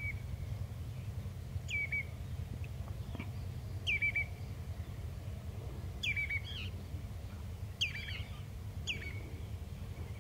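A bird calling again and again, about every two seconds: each call a sharp falling note followed by two or three short clipped notes. A steady low rumble runs underneath.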